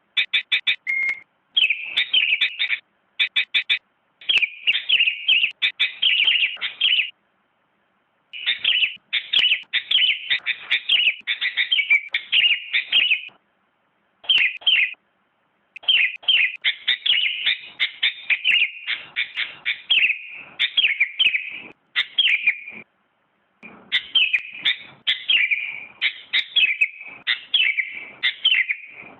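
Sooty-headed bulbul (kutilang) singing: runs of quick chirped, whistled notes with a few fast trills, broken by pauses of about a second.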